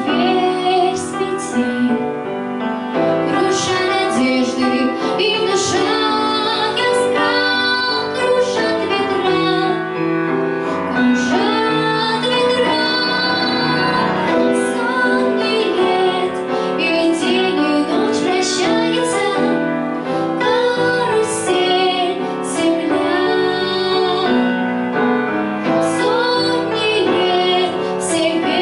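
A young female voice singing a song over an instrumental backing track with piano.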